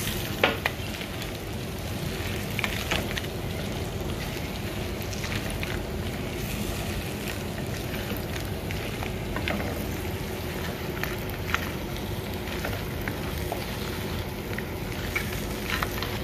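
Crab pieces and onion-tomato masala sizzling in a pan while being stirred with a wooden spatula. Scattered clicks and knocks come as the spatula turns the crab shells against the pan, with one sharper knock about half a second in.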